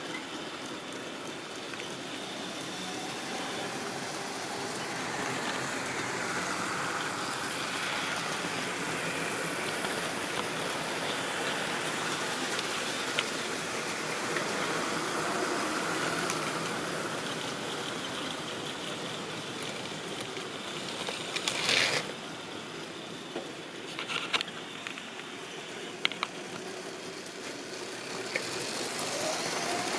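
Model railway train running on its track: a steady rumble of the motor and wheels on the rails that swells and fades, with a few sharp clicks in the second half.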